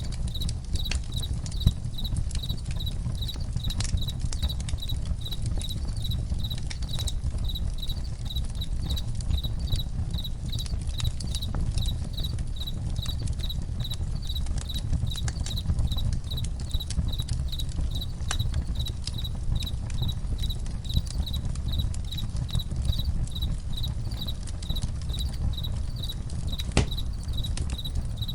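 Crickets chirping in a steady, even rhythm, about two chirps a second, over a campfire's scattered crackles and pops and a low steady rumble.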